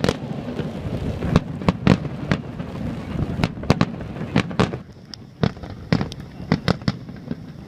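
Fireworks display: bursting shells give loud, irregular bangs and pops, rapid at first and thinning out to scattered bangs about halfway through.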